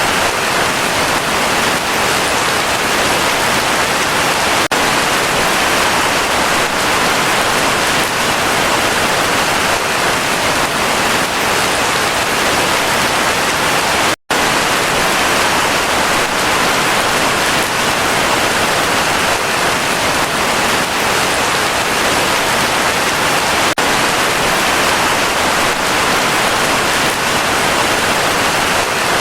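Heavy rain falling steadily, a dense, even hiss with no letup. About halfway through the sound cuts out for a split second, then resumes unchanged.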